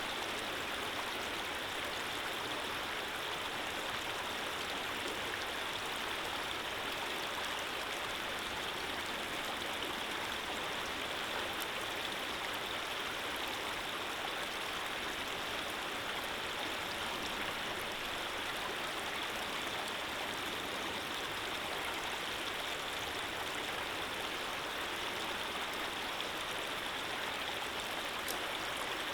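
Running water flowing steadily: a constant even rush with no pauses or changes.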